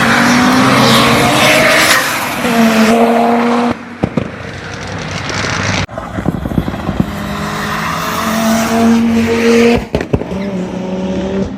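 Audi car engine pulling hard at full throttle on a race track. Its pitch climbs, then drops sharply at a gear change about four seconds in, then climbs again and drops near ten seconds.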